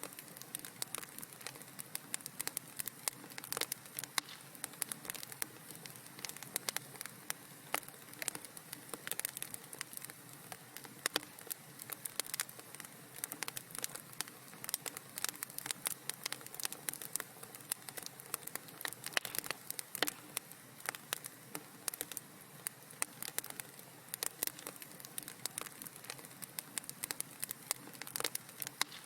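Wood fire crackling steadily in a fireplace, with dense irregular pops and snaps over a soft hiss.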